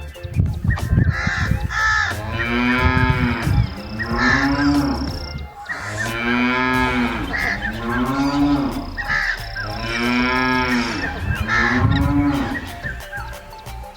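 Cows mooing over and over, about six long moos, with short cawing calls between them.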